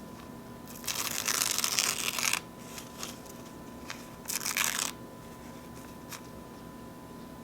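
Paper napkins being torn: one long rip about a second in and a shorter one about four seconds in, with a few light crinkles between.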